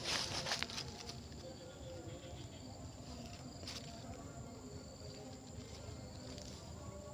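Insects trilling steadily in one high, unbroken tone. Brief rustles and crackles come over it at the start and again a little before four seconds in.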